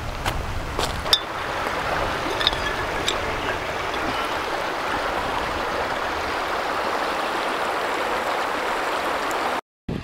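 Shallow river water running over stones, a steady rush, with a few sharp clicks in the first three seconds. The sound cuts out briefly near the end.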